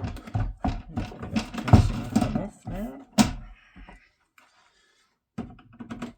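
Clicks and knocks of a screwdriver and a plastic appliance casing being handled, mixed with indistinct muttered speech, for about four seconds; then a short quiet, and a few faint handling sounds near the end.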